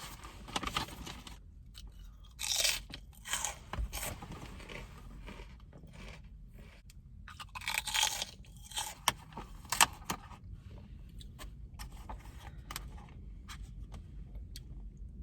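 Crunching and chewing of crisp food close to the microphone, coming in irregular bursts with sharp clicks, loudest in two spells, near the start and in the middle.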